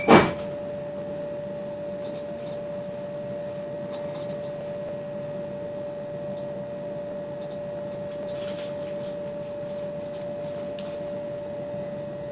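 Cabin noise of a Great Western Railway Class 387 electric train running along, a steady hum with one constant mid-pitched tone and a few faint ticks and rattles. A sharp knock right at the start cuts off a louder rushing noise.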